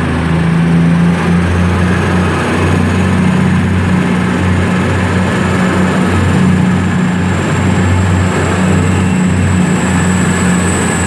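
Class 222 Meridian diesel-electric multiple unit pulling away, its underfloor diesel engines running hard under load. A thin high whine climbs slowly in pitch as the train gathers speed.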